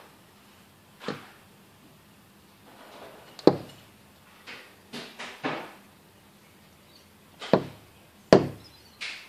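Irregular sharp knocks against window glass, about eight of them at uneven intervals, the loudest about three and a half seconds in.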